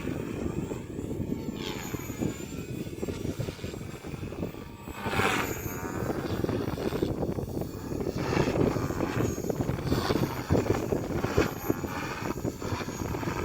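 Electric RC helicopter (Acro480) flying 3D aerobatics: rotor and motor whine sweeping up and down in pitch and surging in level as it flips and turns, over a steady rumble of strong wind on the microphone.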